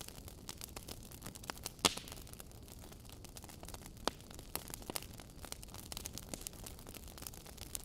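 Wood fire burning in a fireplace, crackling with scattered sharp pops and snaps over a soft hiss. One louder pop comes about two seconds in.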